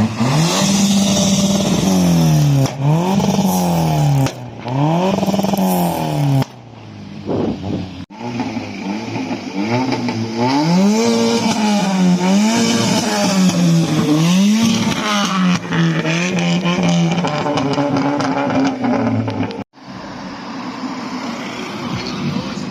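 Car engine being revved repeatedly while standing still, each blip of the throttle rising and falling in pitch about once every second or so, with a few abrupt breaks.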